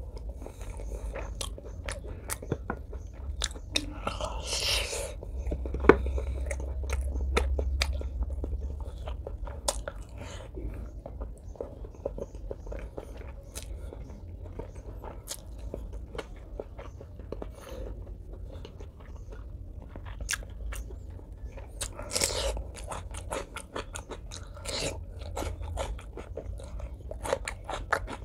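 Close-miked wet chewing of braised pork leg, with many small mouth clicks, and two brief louder crunchy patches, about four seconds in and again about twenty-two seconds in.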